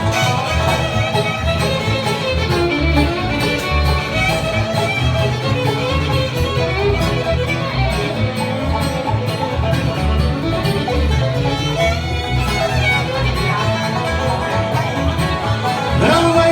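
Live country-bluegrass band playing an instrumental break, with a fiddle taking the lead over guitar and a steady bass beat.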